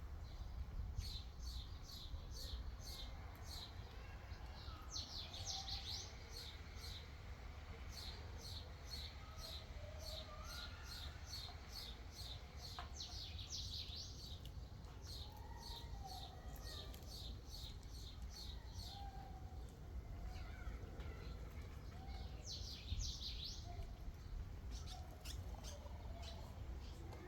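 Small birds chirping: a steady run of short high chirps a few times a second, broken now and then by quick rapid trills, with fainter calls lower down. A low steady hum lies underneath.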